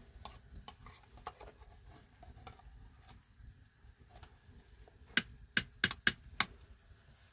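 Scattered light clicks and taps, then four sharp, loud knocks in quick succession about five seconds in.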